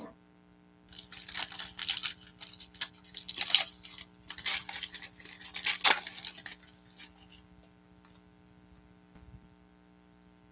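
Plastic wrapping on a trading card box or pack crinkling and tearing as it is pulled open, in clusters for about five seconds, over a low mains hum.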